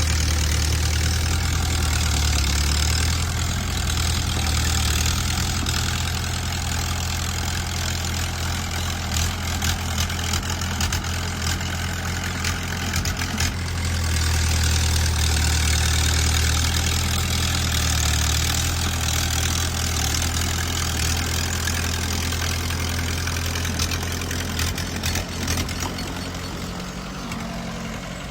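Bulldozer's diesel engine running, its low note easing off and picking up again, with scattered clanks and knocks.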